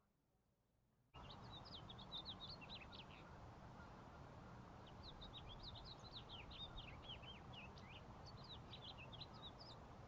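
Near silence for about a second, then steady outdoor background noise with three bouts of rapid, high chirping calls from a bird.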